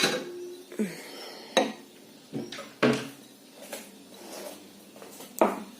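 Fruit-and-nut mix tipped out onto a china saucer: a handful of separate sharp clicks and clinks, some ringing briefly, as single nuts and raisins drop onto the plate.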